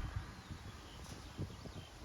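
Faint birdsong, a few short arching whistled notes, over a low wind rumble on the microphone.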